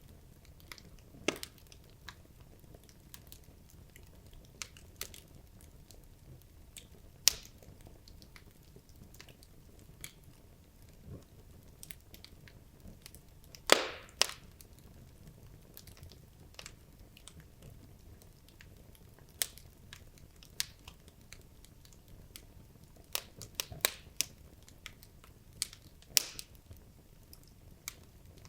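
Wood logs burning in a fireplace, crackling and popping at irregular intervals over a low steady fire noise. The loudest pops come about a second in, around seven seconds, around fourteen seconds and near the end, with a quick run of crackles a few seconds before the end.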